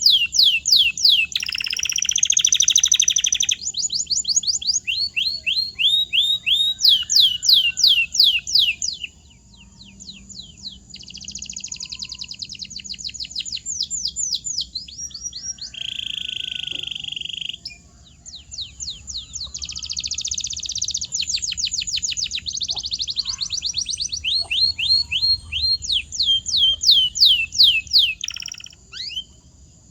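Domestic canary singing: a long song of rapid repeated trills and rolls, each phrase a fast train of high downward-sweeping notes, changing tour every few seconds with brief pauses between some phrases.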